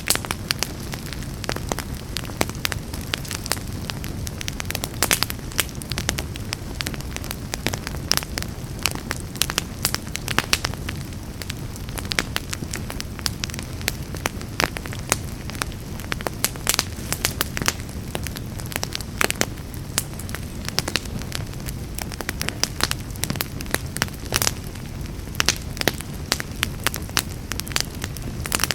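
Fire in a fireplace crackling, with frequent irregular sharp pops over a steady low rumble of flames.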